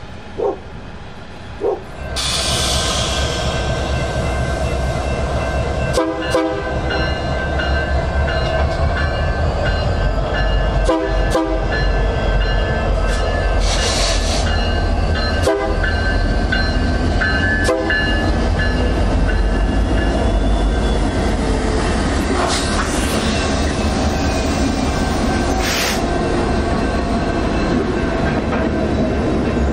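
Diesel freight train led by EMD GP60M locomotives passing close by: a steady low rumble of engines and wheels that comes up suddenly about two seconds in. The locomotive horn sounds four short blasts, the last two closer together.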